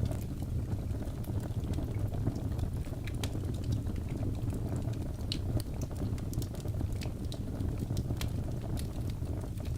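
Birch logs burning in a fireplace: a steady low rumble of the flames with irregular sharp crackles and pops from the wood, several a second at times.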